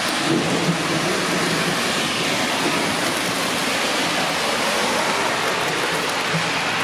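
Heavy rain pouring down in a thunderstorm: a steady, dense hiss of downpour that holds at one level throughout.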